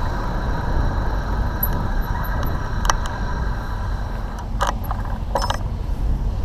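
Steady road noise and wind rumble from traffic, with a few short sharp clicks about three, four and a half and five and a half seconds in.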